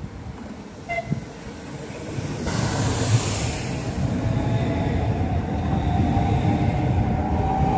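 Passenger train running through the station. It grows much louder about two and a half seconds in, then carries on with a steady whine that rises slightly in pitch. A short beep sounds about a second in.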